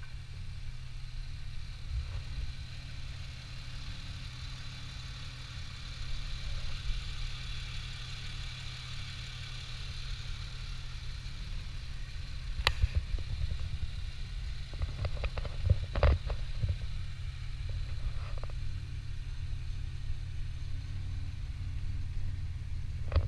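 2001 Chevrolet Malibu engine idling steadily with the hood up, with a few sharp knocks around the middle.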